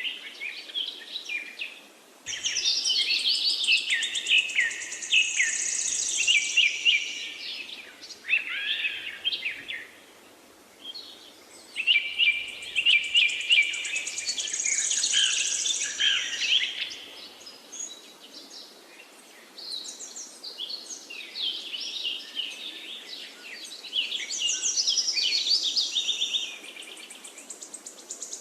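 A songbird singing long, varied phrases of rapid chirps and trills, three bursts of several seconds each with short pauses between, over a faint steady background hiss.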